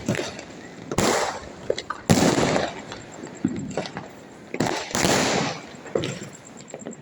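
Diwali firecrackers going off in the neighbourhood: a handful of sudden bangs, each followed by a rolling echo that dies away within a second.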